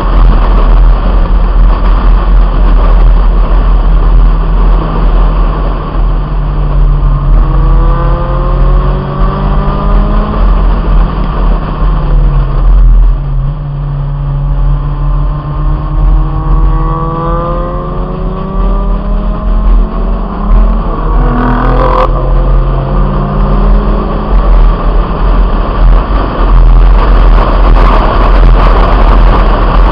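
1997 Honda Integra's four-cylinder engine driven hard around a race track, under heavy wind rumble on a roof-mounted microphone. Its pitch climbs twice and each time falls away, and there is one sharp knock about two-thirds of the way through.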